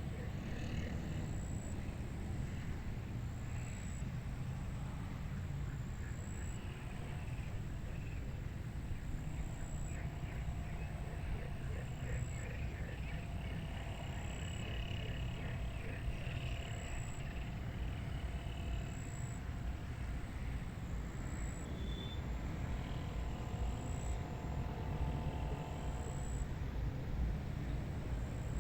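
Wind on the microphone in a steady low rumble over a rice paddy, with faint animal calls here and there.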